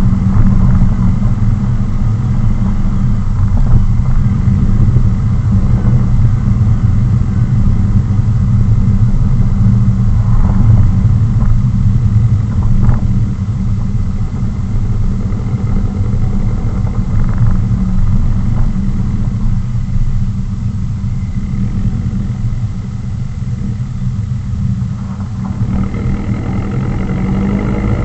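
Ford C-MAX with a straight-piped exhaust cruising, its engine running with a steady low exhaust note. Near the end the engine revs up and the pitch rises.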